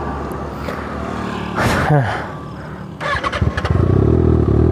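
Kawasaki Ninja ZX-6R's inline-four engine running low, then revving as the bike pulls away from a standstill about three seconds in, settling into a loud steady drone.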